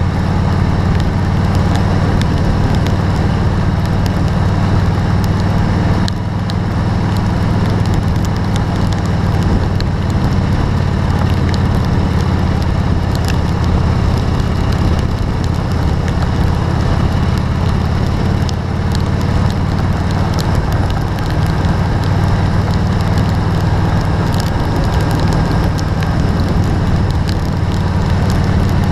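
Heavy rain falling, with many crackling drop impacts over a constant low engine hum.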